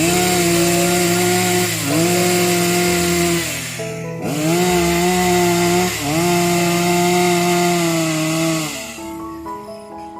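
Chainsaw running at high revs cutting wood. The engine pitch sags and recovers briefly about every two seconds, and near the end the saw drops off, leaving background music.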